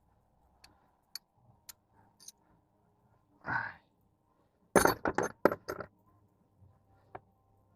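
A quick run of five or six sharp metallic clinks and knocks, like tools or small metal parts being handled, about five seconds in, after a short scraping rustle a second earlier, with scattered faint clicks around them.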